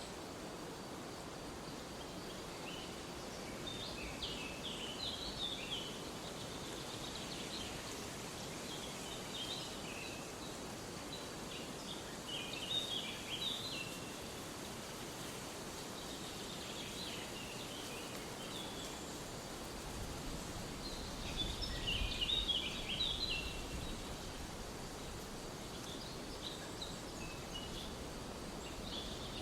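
Forest ambience: small birds singing in quick chirping phrases every few seconds over a steady background hiss.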